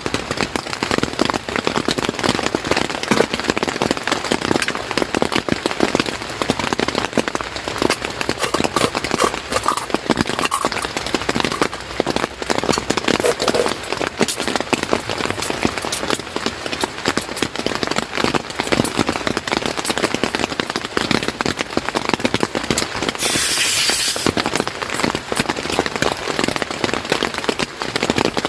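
Rain pattering on a tent: a dense, irregular spatter of drops, with a brief hiss about three quarters of the way through.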